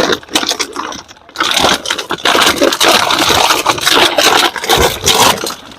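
Plastic bottles of a homemade bottle raft scraping and crackling as someone shifts his weight on it, with a dense run of irregular rustles and clicks and a short pause about a second in.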